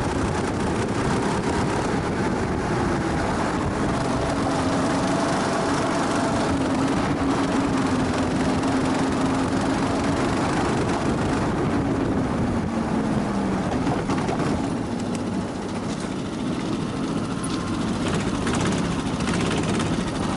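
Go-kart engine running at speed, heard onboard under heavy wind and track noise; the engine note wavers, then drops about two-thirds of the way through as the kart slows.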